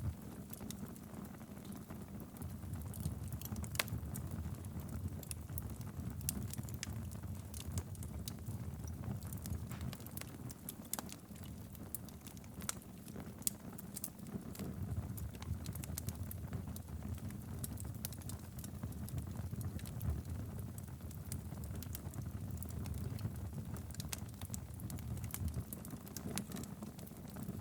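Wood fire crackling in a fireplace: irregular sharp pops and snaps over a low steady rumble of the burning logs, with one of the sharpest pops about four seconds in.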